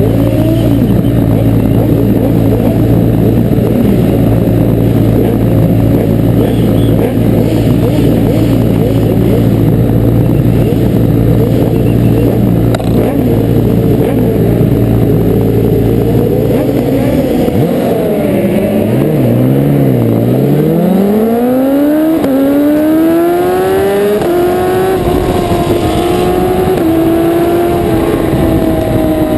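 Several 1000 cc superbike engines running and blipping at once, with a steady low hum under them. About two-thirds of the way in the low hum stops and one engine's pitch dips, then climbs steeply and holds high as a bike accelerates away.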